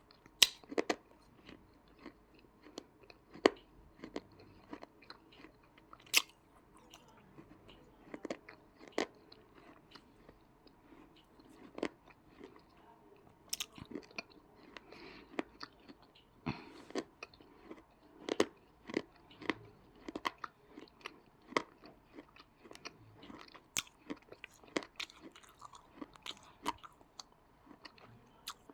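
Person biting and chewing chunks of dry yellow edible clay (choy): irregular sharp crunches, about one or two a second, over softer chewing.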